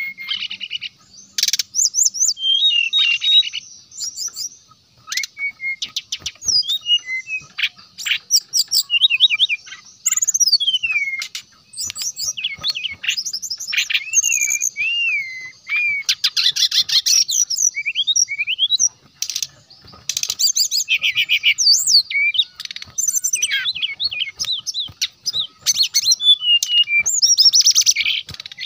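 Brown-chested jungle flycatcher singing vigorously: a long run of varied, rapid phrases of high trills, chattering notes and gliding whistles, in bursts with short pauses between them.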